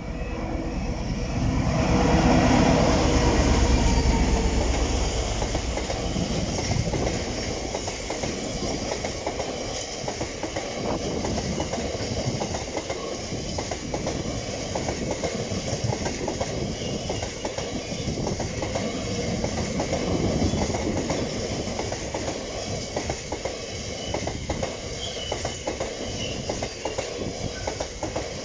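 A diesel freight locomotive passes at close range, loudest about two to four seconds in. A long train of bogie tank wagons follows, rolling past with steady wheel rumble and clatter.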